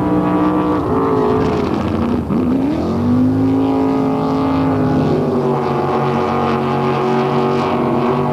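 Racing boat engines running at high revs, several at once. Their pitch dips sharply and climbs back about two seconds in, then holds steady.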